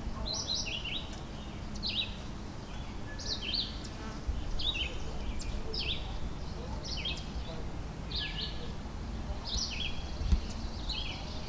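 A songbird calling in short bursts of quick, sweeping high chirps, about every second and a half, over a steady low outdoor rumble. A single knock sounds near the end.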